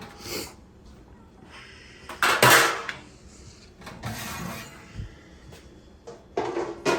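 Metal oven rack being slid out of the oven and handled, rattling and clanking, with a loud scrape about two seconds in and a couple of sharp knocks near the end.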